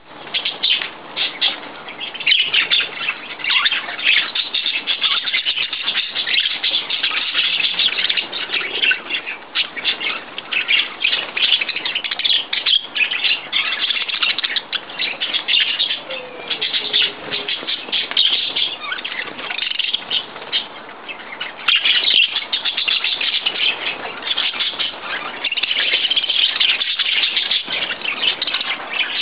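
Many birds chirping at once, a dense, continuous chatter of short overlapping calls.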